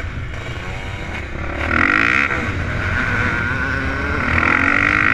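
Dirt bike engine running and revving. Its pitch swings up and down about two seconds in and the engine grows louder, then holds steady and loud near the end.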